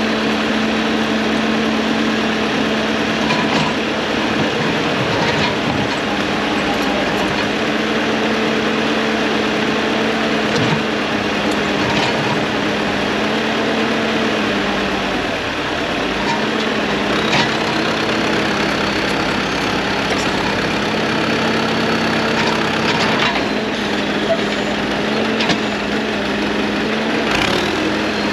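Heavy equipment's diesel engine running steadily, its note dipping briefly about halfway through, with a few sharp clanks here and there.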